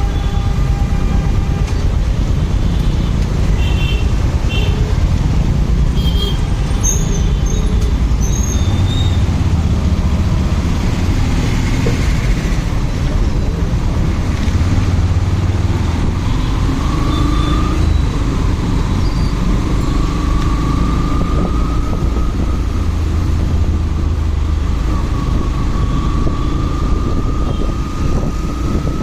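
Motorcycle ride through city traffic: a steady rush of wind and engine noise on the rider's microphone. There are a few short high beeps in the first nine seconds, and a whine that slowly wanders in pitch through the second half.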